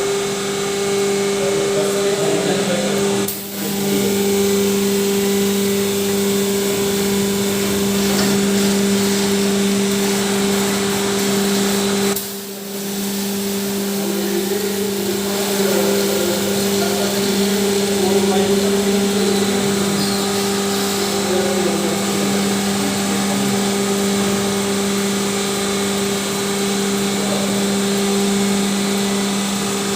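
Washing machine's electric motor running steadily with a constant hum, dropping out briefly twice, about three and a half and twelve and a half seconds in.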